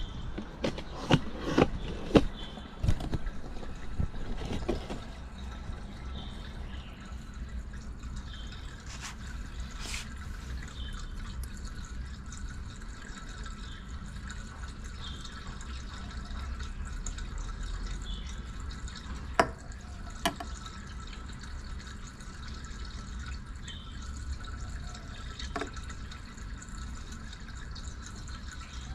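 Water dripping in slow, even drops over a low steady rumble, with several sharp knocks in the first few seconds and two more about twenty seconds in.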